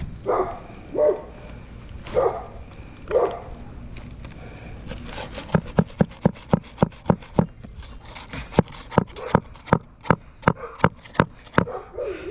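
A dog barks four times in the first few seconds. From about halfway through, there is a fast, steady run of hammer blows, about three a second, as a nail is driven to fasten a replacement roof shingle.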